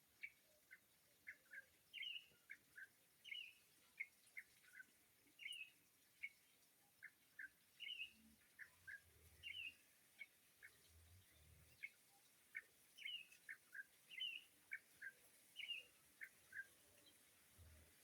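Faint bird calls: short, high chirps and quick downward notes, repeated several times a second in small clusters.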